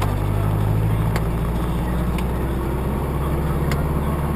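Steady engine hum and road noise of a car on the move, with a few faint clicks.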